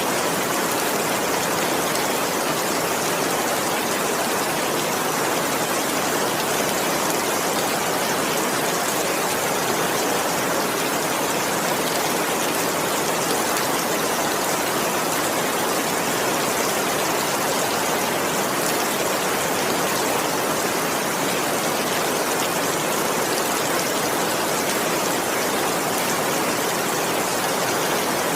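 Heavy rain falling in a steady, even hiss, with no sudden cracks or rumbles.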